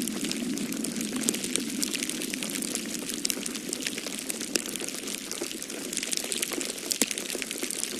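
Wood fire crackling in a fireplace, with many small irregular pops and snaps over a steady low whooshing hiss.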